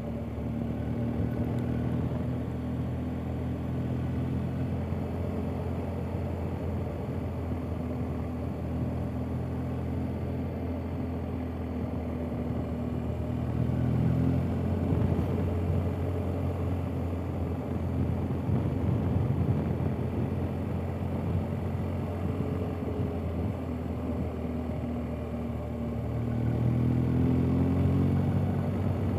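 BMW R 1250 GS Adventure's boxer twin engine running at road speed. The engine note rises as it speeds up about halfway through, and again near the end.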